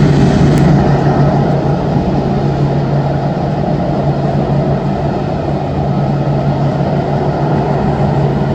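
Boeing 787's jet engines running at taxi idle: a steady low hum over an even rush of noise, slightly quieter after about a second.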